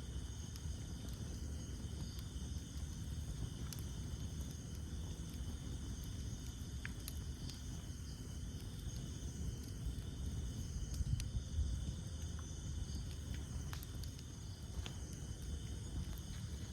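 Wood fire burning: scattered sharp crackles and pops over a low rumble of flames, with a steady high insect chorus behind it.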